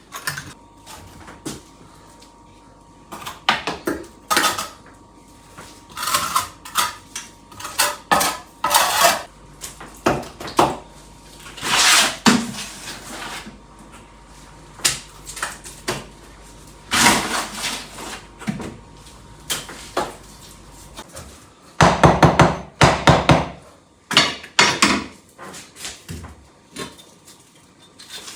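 Irregular clinks and knocks of hard objects being handled, with a dense run of rapid clatter about three-quarters of the way through.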